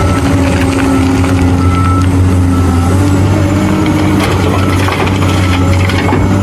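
Heavy diesel engine running steadily, its pitch shifting slightly about halfway through.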